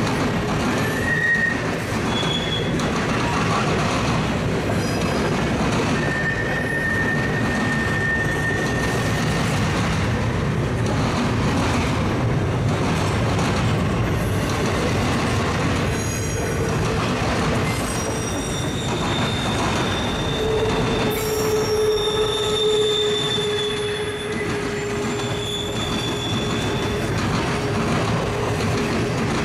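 Intermodal freight train rolling past with a steady rumble, its wheels squealing in long, drawn-out tones that grow stronger in the second half.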